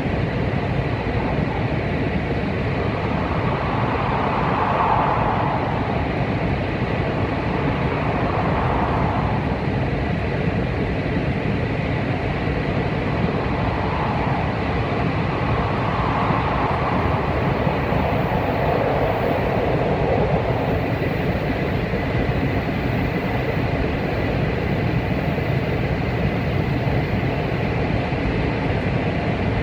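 Steady running noise of a Shinkansen bullet train at speed, heard inside the passenger cabin: a constant rumble and rush with a faint steady high tone. The noise swells gently a few times.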